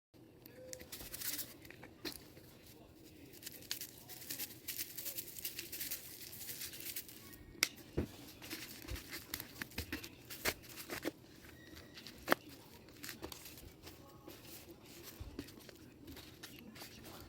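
Rustling and crinkling handling noise, with scattered sharp snaps and clicks.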